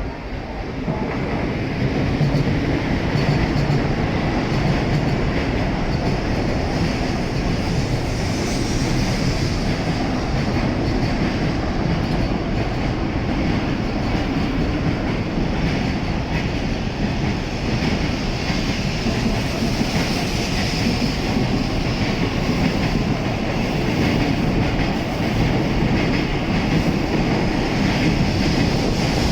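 N700-series Shinkansen train pulling out along the platform. The rumble and rail noise swell over the first couple of seconds, then run loud and steady.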